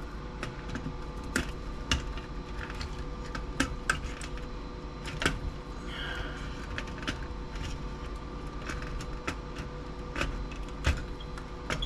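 Irregular small clicks and taps of hand tools and loose parts against a small CRT TV's chassis and circuit board as it is taken apart, with a brief scrape about halfway through, over a faint steady hum.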